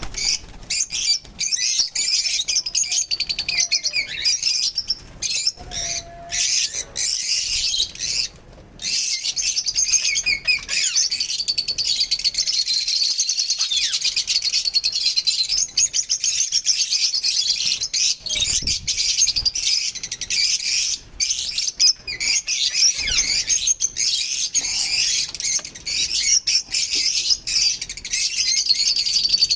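A group of lovebirds chattering nonstop, a dense tangle of rapid, high-pitched chirps and squeaks overlapping throughout.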